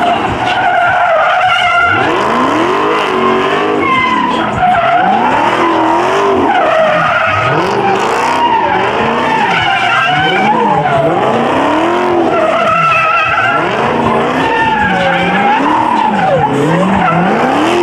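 A muscle car doing a burnout or donuts, its engine revving up and down over and over, with tyres squealing and skidding on the pavement.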